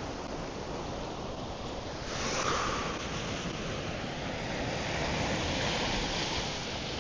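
Ocean surf: waves breaking and washing up the beach in a constant rush. It swells louder about two seconds in, then again for a couple of seconds near the middle.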